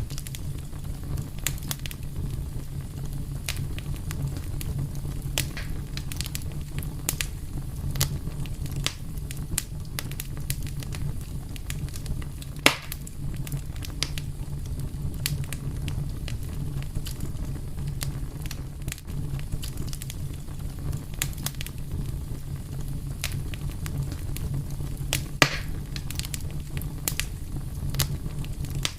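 Fire crackling steadily over a low rumble, with frequent sharp snaps and two louder pops, one about halfway through and one near the end.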